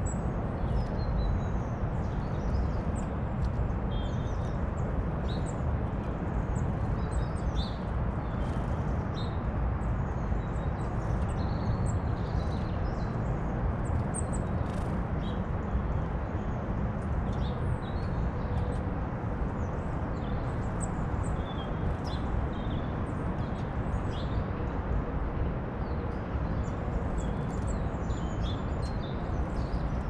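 Small songbirds chirping and calling in many short, high notes scattered throughout, over a steady low background rumble.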